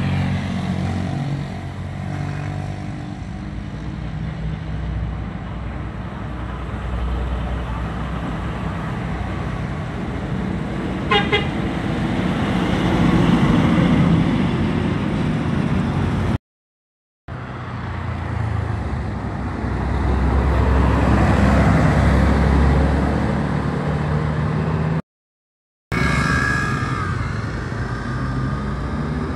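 Large buses and trucks driving past, a steady engine rumble with road noise that swells as a vehicle goes by about 20 seconds in. A brief horn toot sounds about 11 seconds in. The sound cuts out completely twice for about a second.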